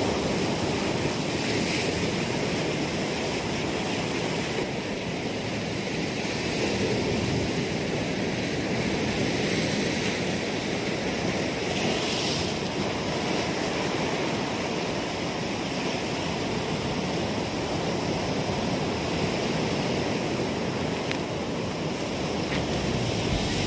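Sea surf washing onto a sandy beach in a steady, continuous rush that swells and eases gently; the waves are fairly strong.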